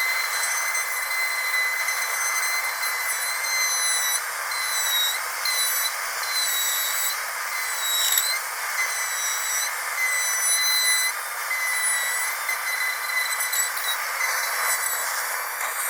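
Dentist's drill whining steadily at a high pitch over a hiss, the whine dipping briefly in pitch a few times.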